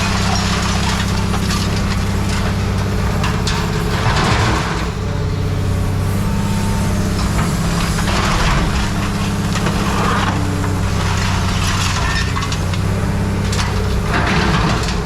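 An engine running steadily, with bouts of crunching and clattering as trash and scrap debris are cleared out, about four seconds in, around eight to ten seconds, and again near the end.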